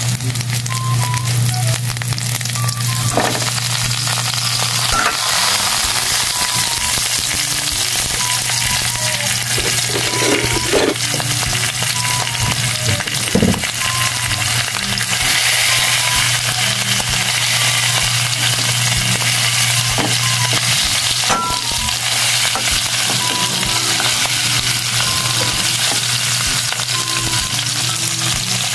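Chopped garlic and onion sizzling in oil in a metal wok, with occasional clicks and scrapes of a metal ladle. About halfway through, a lump of ground meat goes in with a knock and the sizzle grows stronger. A steady low hum stops about two-thirds of the way through.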